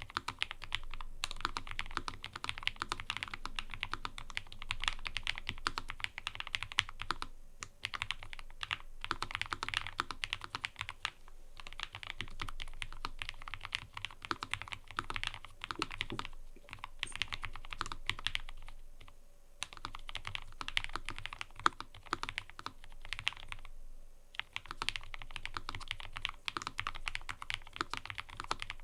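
Fast, continuous typing on a mechanical keyboard: a dense run of key clicks, broken by a few short pauses.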